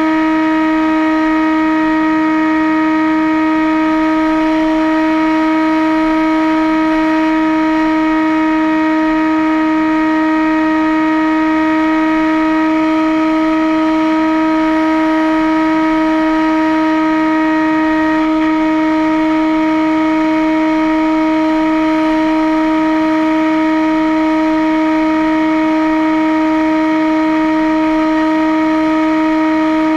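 RC aircraft's motor and propeller whine, a steady, unchanging hum held at one pitch throughout.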